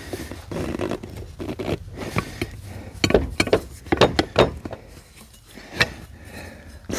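Metal hand tool scraping and clicking against the tractor tire's valve stem and wheel, with stretches of scraping early on and several sharp clicks and knocks in the second half.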